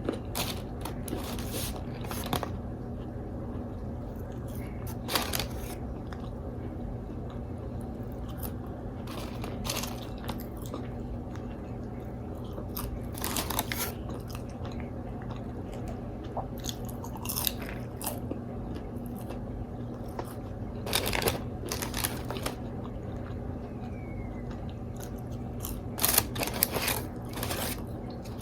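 Close-miked eating: crunchy bites and chewing of fried food, in crackling clusters every few seconds, over a steady low hum.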